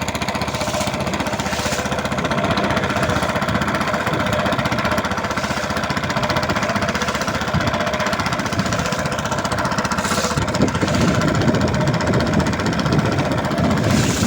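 Small boat's engine running steadily with a rapid, even chugging, getting a little louder about ten seconds in.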